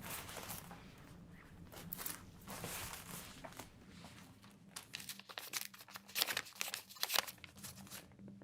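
Soft crinkling and rustling of things being handled, with a few sharper, louder crackles from about five to seven seconds in.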